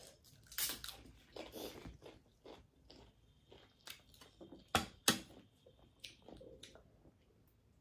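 Close-up chewing and other mouth sounds of people eating, picked up by a clip-on microphone, with scattered short clicks and a few louder bursts about five seconds in.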